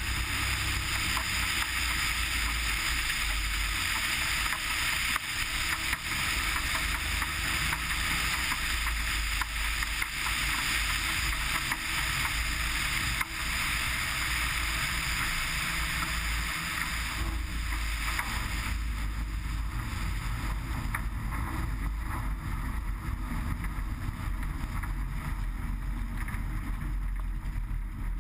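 Cessna 180's six-cylinder Continental engine and propeller running steadily, with a low rumble under a rushing noise; the higher-pitched part of the sound falls away about 18 seconds in.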